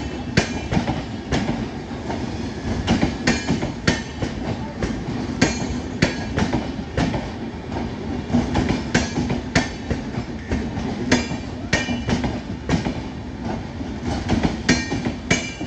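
Express train's passenger coaches rolling past close by at speed: a steady rumble of wheels on rail, broken by repeated sharp clicks and clacks as the wheels cross rail joints.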